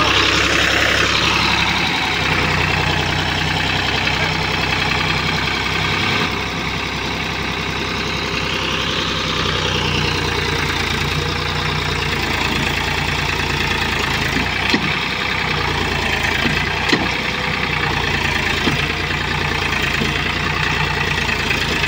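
Powertrac Euro 50 tractor's diesel engine running steadily just after starting, with a brief rise in engine speed at the start and a few sharp clicks later on.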